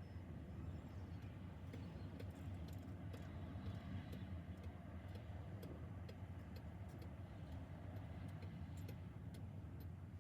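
Faint, steady low rumble of a car, overlaid by a run of light, irregularly spaced ticking clicks at about two a second.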